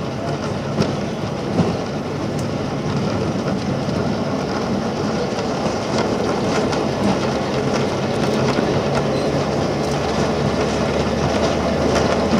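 Ride inside a diesel-powered Botchan Ressha replica train car running on tram tracks: a steady rumble of the wheels on the rails with a low, even hum under it and a few light clicks, growing slightly louder as it goes.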